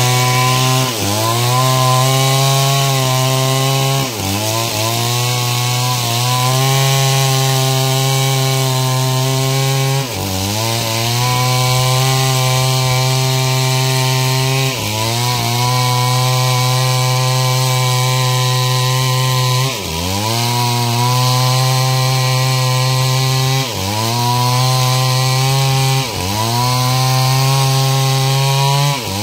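Stihl two-stroke chainsaw running at high revs while sawing through a log to cut planks. Its pitch drops briefly and climbs back about seven times as the cut loads the engine or the throttle eases.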